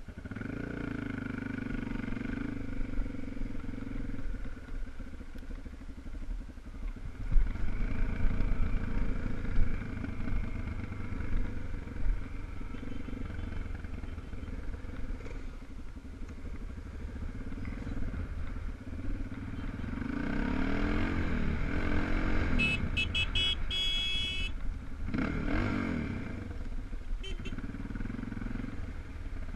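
Single-cylinder 250 cc enduro motorcycle engine running, with the throttle opened and closed so the pitch rises and falls in several glides near the end. Louder low thumps come about a quarter of the way in.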